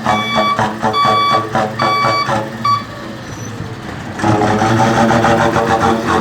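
Ford Cargo 2520 diesel truck's button-operated whistling exhaust sounding a run of short, even, high toots over the running engine. About four seconds in, the whistle has stopped and the engine gets louder, with a fast pulsing exhaust note.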